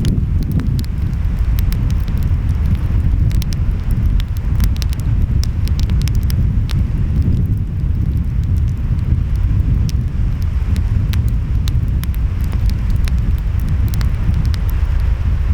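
Wood fire crackling with frequent sharp pops at irregular intervals, over a steady low rumble of ocean waves and wind.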